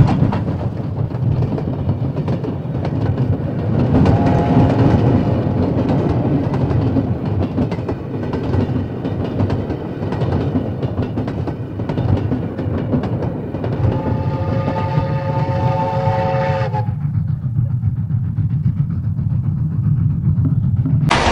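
Freight train running past with a heavy, steady low rumble. Its horn sounds a chord briefly about four seconds in and again for about three seconds near the middle. After that the higher sounds cut off suddenly, leaving only the rumble.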